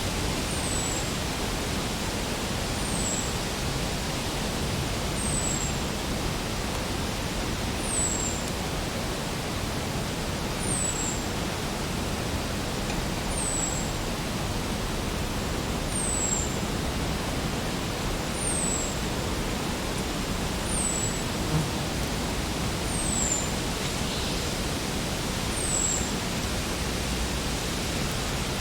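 Spring forest ambience: a steady rushing noise under a bird's high, thin call that slides downward, repeated about every two and a half seconds.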